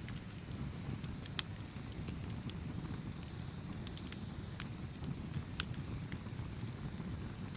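Campfire burning with a steady low rumble and irregular sharp crackles and pops of burning wood, one louder pop about a second and a half in.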